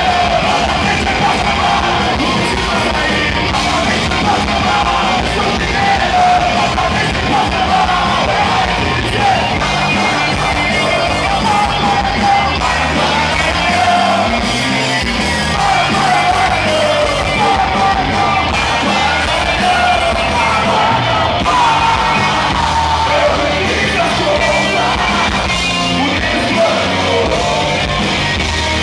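Hardcore punk band playing live, with shouted vocals over distorted guitars, bass and drums, in a large hall.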